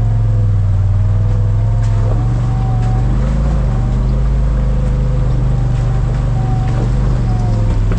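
Off-road vehicle engine idling steadily close by, with a few faint clicks over it.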